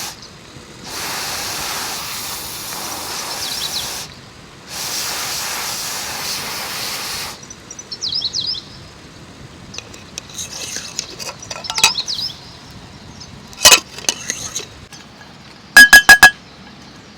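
Loud, even hissing in two stretches of about three seconds each, with bird chirps, followed by scattered ticks and ringing clinks, including a quick run of four clinks near the end.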